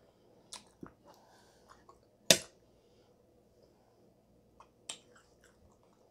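Close-miked chewing with a few sharp clicks; the loudest, a little past two seconds in, is a metal fork being set down on a ceramic plate.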